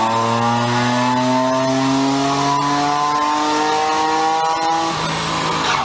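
Car engine pulling under load on a chassis dyno, its pitch climbing slowly and steadily as the revs rise through the gear, then easing off about five seconds in.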